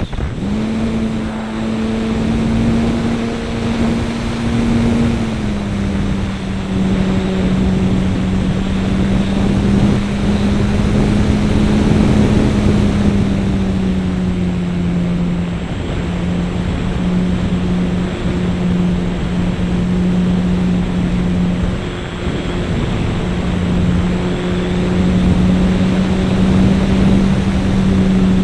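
RC model airplane's .21 glow engine running steadily in flight, with wind rushing over the airframe. Its pitch steps down slightly about five seconds in and again around fourteen seconds in.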